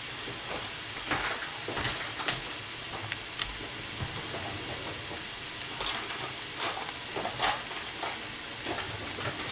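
Food frying in a pan with a steady sizzle, and a scattering of short sharp clicks like a utensil stirring against the pan.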